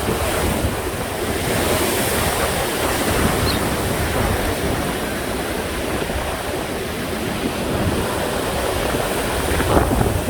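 Rough sea surf washing and breaking continuously, a steady rushing roar with deep rumble, the high surf stirred up by a typhoon's indirect influence. Wind buffets the microphone, a little more near the end.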